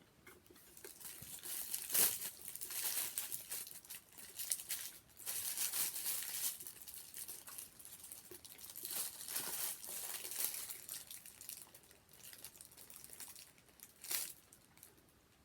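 Sandwich packaging crinkling and rustling in irregular bursts, with a couple of sharp crackles.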